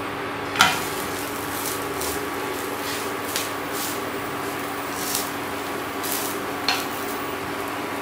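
Ragi roti sizzling in oil on a nonstick tawa, with a wooden spatula knocking and scraping against the pan a few times; the loudest knock comes about half a second in.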